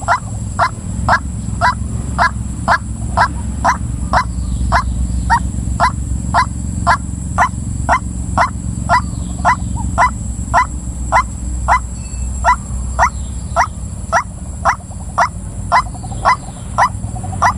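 Female white-breasted waterhen calling: one short note repeated evenly, about twice a second, over a steady low hum.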